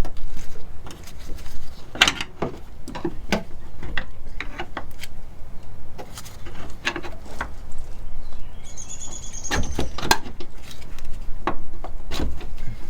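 Irregular clicks and knocks of hand tools and shock absorber parts being handled and refitted, with a brief high squeak about nine seconds in.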